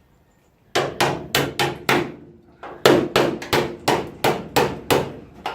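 Hammer blows on the steel bodywork of a car, in two quick runs of about three to four strikes a second with a short pause between, knocking loose a spot-welded panel.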